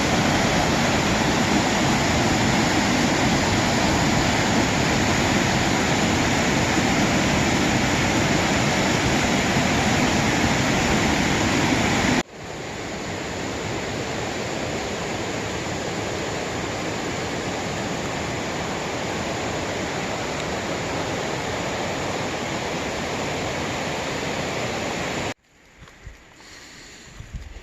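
Steady rush of falling water from a waterfall. About twelve seconds in it cuts abruptly to a somewhat quieter rush, and near the end it cuts again to a much quieter background with a few faint knocks.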